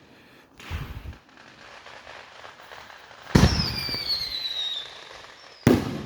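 Consumer fireworks going off close by. There is a dull thump about a second in, then a sharp bang followed by a high whistle that slides down in pitch for about a second and a half, and another sharp bang near the end.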